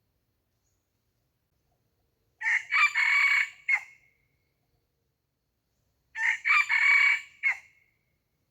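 Red junglefowl rooster crowing twice, each crow about a second and a half long, the second coming about four seconds after the first.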